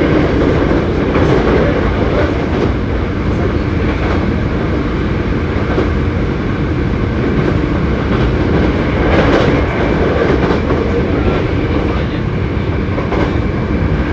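Hankyu 7300-series electric train car 7807, known for an unusual running noise, running along the line. It makes a steady rumble with a few short clicks over the rail and a brief swell about nine seconds in.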